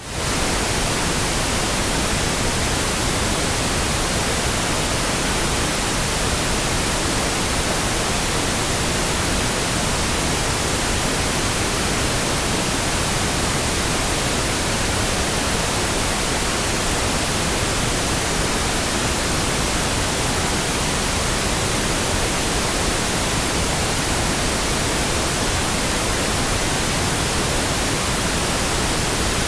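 Steady pink noise, an even hiss with no changes, fading in quickly right at the start after a brief gap of silence.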